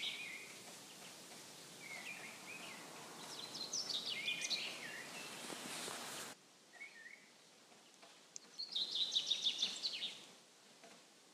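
A songbird singing outdoors: a short, rapid phrase of high chirping notes, given twice about five seconds apart, with softer short calls between, over a faint background hiss that drops abruptly about six seconds in.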